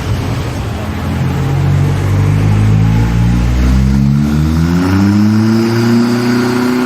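Ford Fiesta ST Mk7's 1.6-litre turbocharged four-cylinder EcoBoost engine and exhaust accelerating hard, the engine note rising steadily for several seconds and then holding at high revs near the end.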